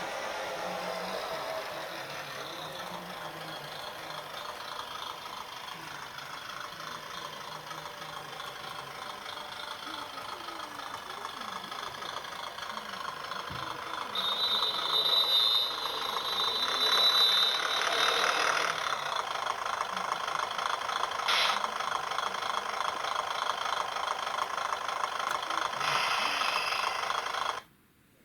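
HO-scale model diesel railcar running on its track, the small electric motor whining and changing pitch as the speed changes, with wheel and rail noise. It grows louder partway through, with a brief high squeal, and cuts off abruptly near the end.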